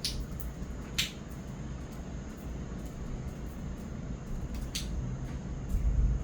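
Low, steady rumble of tropical thunder that swells near the end, with three sharp clicks along the way.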